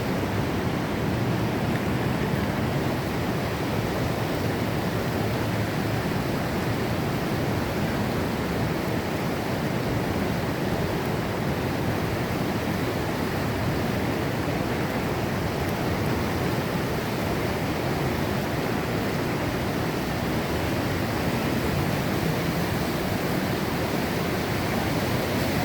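Steady rushing water of a river running over rapids, an even unbroken noise.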